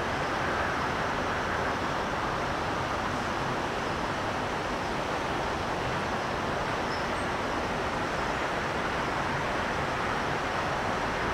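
Steady, even rumble with a faint low hum from the diesel locomotives of an approaching CSX freight train, still far off.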